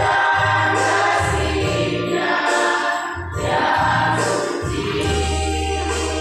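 Choir singing with instrumental accompaniment, over held low bass notes that change every second or so.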